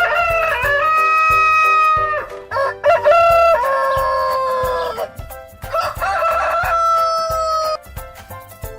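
Rooster crowing three times, each a long drawn-out cock-a-doodle-doo, over background music with a steady beat.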